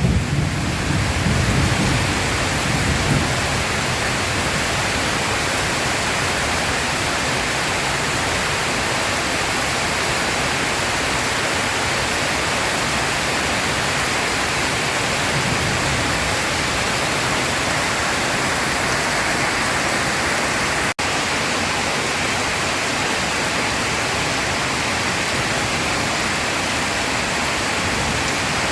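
Heavy rain pouring steadily in a thunderstorm, with the low rumble of thunder fading away over the first few seconds. A split-second gap in the rain comes about two-thirds of the way through.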